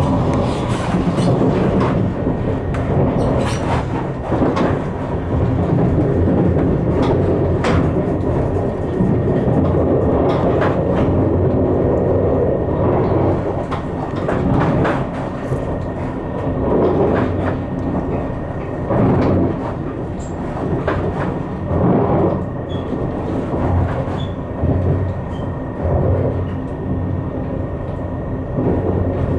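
Deutsche Bahn ICE high-speed train running on the track, heard from inside the carriage: a steady rumble of wheels on rails with irregular clicks and knocks as the wheels cross rail joints, while the train accelerates away from the station.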